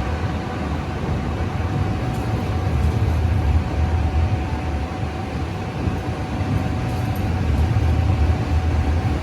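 Electric train running: a steady low rumble with a constant whine-like tone above it.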